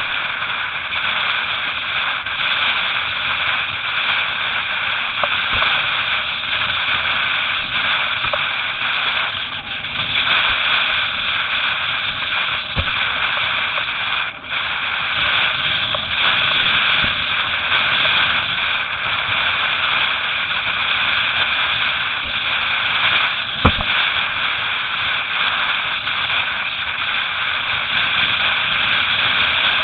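Wind and water rushing past a camera on a windsurfer sailing in strong, gusty wind: a steady hiss with scattered light knocks, and one sharper knock about three quarters of the way through.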